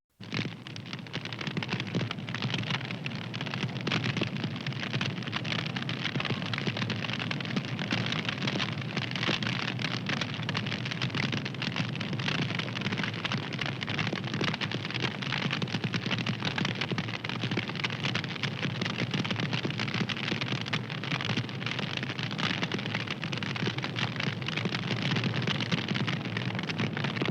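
Wood fire crackling: a dense, continuous stream of small pops and snaps over a steady hiss.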